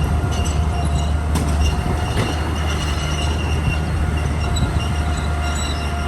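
Komatsu D41P crawler bulldozer at work: a diesel engine running with a steady low hum while its steel tracks squeal on and off and clank.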